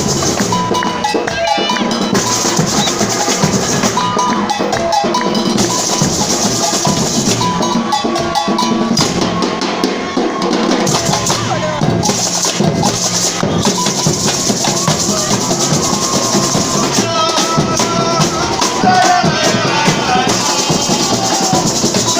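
Samba batería percussion band playing a dense, steady carnival groove of drums, shakers and bells.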